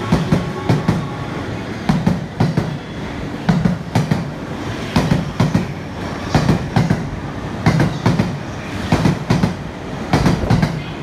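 A JR East E231-500 series electric train leaving the station and running past close by. Its wheels clatter over the track, a cluster of knocks about once a second as each car goes by, over a steady rolling rumble.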